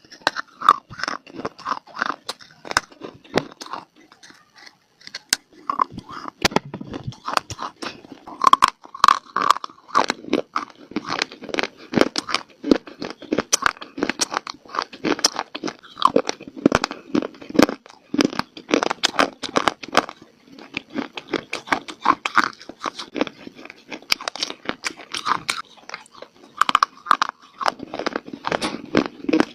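A person biting and chewing dry clay (mitti) close to the microphone: dense, irregular crisp crunches, with a short lull about three to five seconds in.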